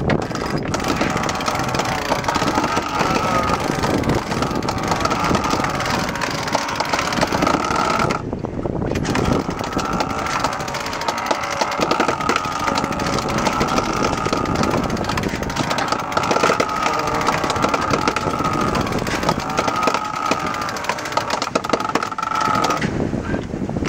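A motor running steadily, with a wavering whine that swells and fades every couple of seconds; it drops out briefly about eight seconds in and again near the end.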